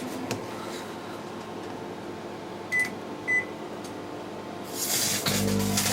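Two short keypad beeps from a modified 1600 W LG IntelliWave microwave oven. About five seconds in, the oven powers up with a loud steady mains hum from its magnetron transformer over the rush of its cooling fans.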